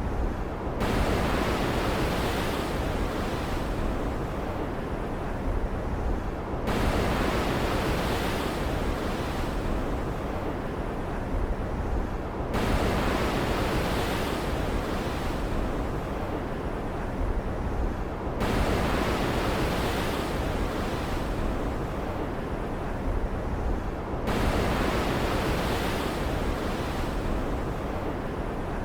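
Ocean surf ambience: a steady low rumble with waves surging in a regular cycle. A swell comes in suddenly about every six seconds, then hisses away, five times.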